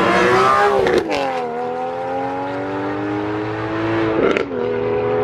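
A car engine accelerating hard as it leaves, its note climbing and then dropping twice with upshifts, about a second in and again near the end.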